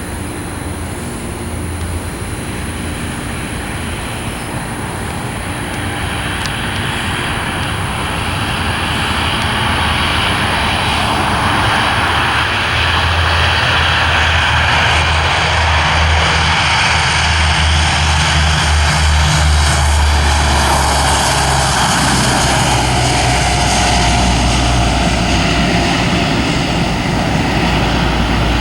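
Military aircraft engines growing louder over the first ten seconds or so as the plane approaches, then holding steady and loud with a low drone.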